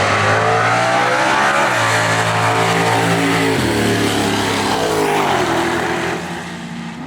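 Drag racing cars accelerating hard down the strip at full throttle, the engine note stepping at gear changes about twice, then fading near the end as the cars pull away.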